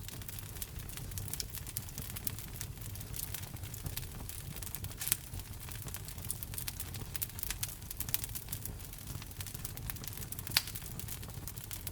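Wood fire crackling steadily with dense small clicks and a low rumble beneath, and two louder pops, about five seconds in and near the end.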